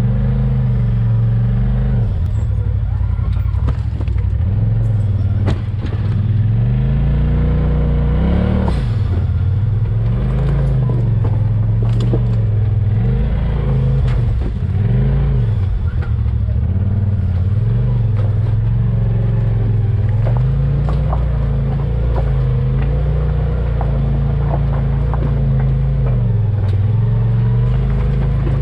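Off-road 4x4's engine running under load, its pitch rising and falling every few seconds with the throttle, with scattered clatter and knocks.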